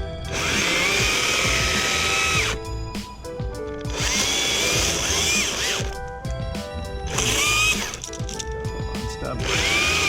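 Stihl MSA 161 T battery top-handle chainsaw cutting branches in four bursts, the electric motor's whine rising as it spins up and falling away as the trigger is let off each time.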